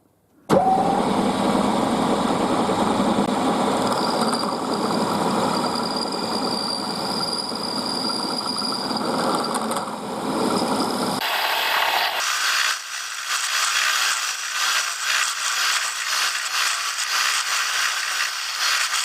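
Milling machine spindle starts suddenly about half a second in and runs steadily, countersinking mounting holes in an aluminium test piece. A thin high tone rides over it for several seconds. About two-thirds of the way in, the sound changes abruptly to a hissier, higher noise.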